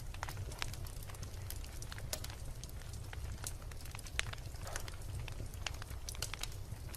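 Wood logs burning in a fireplace, crackling with irregular sharp pops over a steady low rumble of the flames; the loudest pop comes about four seconds in.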